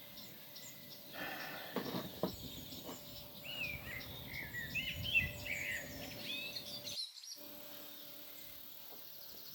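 A bird chirping: a quick run of short rising and falling chirps in the middle, over faint outdoor background noise, with a few soft rustling strokes about a second in.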